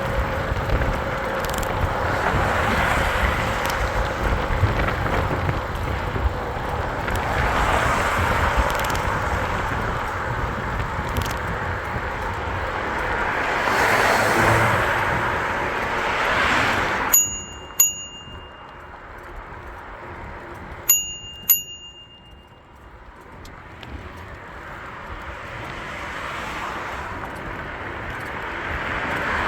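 Bicycle bell rung as two quick double dings, about four seconds apart, over rushing wind and riding noise; the wind noise falls away sharply just as the first ding sounds.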